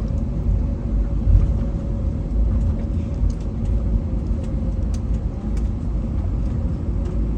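Steady low rumble inside an Airbus A321neo cabin during the taxi, with a steady hum from its CFM LEAP-1A engines and a few light clicks.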